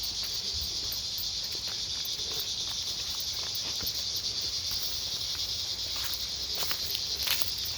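Steady, continuous high-pitched buzzing chorus of cicadas in the trees, the insects locally called locusts. A few faint clicks come near the end.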